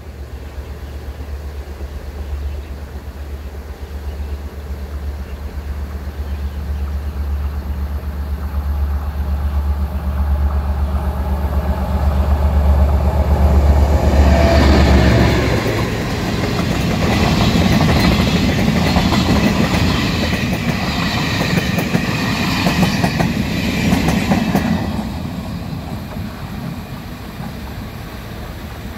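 A Taiwan Railway freight train headed by the R22 diesel-electric locomotive approaches with a low drone that grows louder and passes about fourteen seconds in. The wagons and coaches then roll by for about ten seconds with the clickety-clack of wheels over rail joints, fading as the train moves away.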